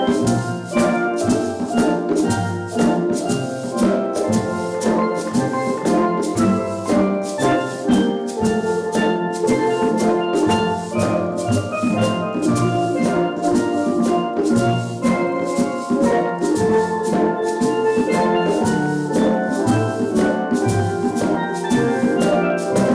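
Steel drum band playing a tune: many ringing steelpan notes over a steady drum beat and pulsing bass notes.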